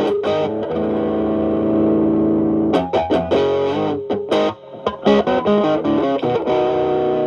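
Stratocaster electric guitar through a Xotic AC Plus overdrive, both channels stacked, into a Marshall Valvestate amp, with the drive cleaned up to a light crunch. Quick picked notes, a chord held for about two seconds, then more runs of single notes.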